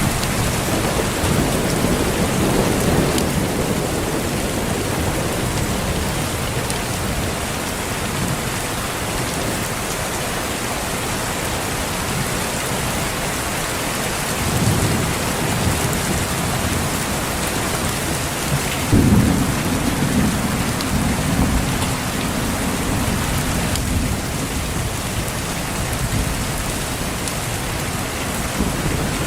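Steady rain with rolls of thunder. There is a low rumble at the start, another a little past halfway, and a sharper clap about two-thirds through that rumbles on for a few seconds.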